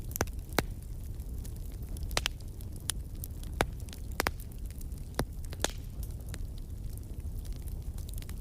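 Wood fire crackling and popping in a fireplace over a low, steady rumble of the flames, with sharp pops at irregular moments, the loudest a few in the first half.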